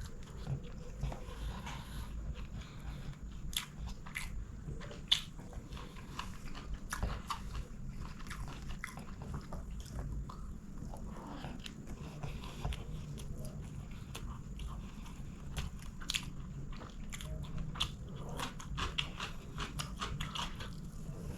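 Close-miked chewing and biting of chicken biryani: a steady run of wet mouth clicks and crunches, with one sharper click about five seconds in.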